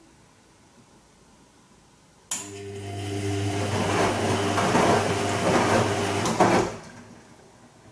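Bosch Serie 2 Vario Perfect washing machine, mid-cycle on its Silk programme: about two seconds in, it starts a steady low electrical hum with a rush of water. The rush grows louder, then it all stops abruptly after about four seconds.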